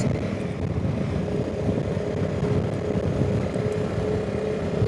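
Honda CRF300 Rally's single-cylinder engine running at a steady speed while riding, mixed with wind rushing over the microphone. A faint steady hum rises out of it about halfway through.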